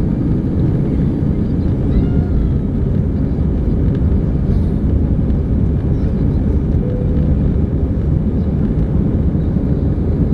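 Airbus A318 jet engine and airframe noise heard inside the passenger cabin: a loud, steady, deep rumble that does not change.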